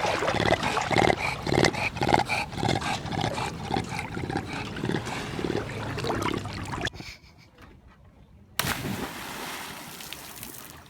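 An animal calling over and over for about seven seconds. After a short lull, a steady rushing noise starts near the end.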